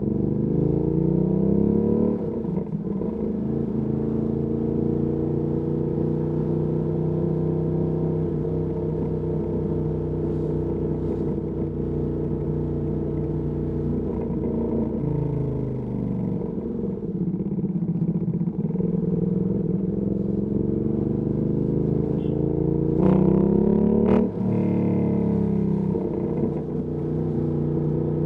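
Ducati Panigale V2S V-twin engine through a Termignoni exhaust, ridden in town. It speeds up at the start, then holds a steady cruise. The revs fall away briefly in the middle, and near the end they climb until a sudden drop at an upshift.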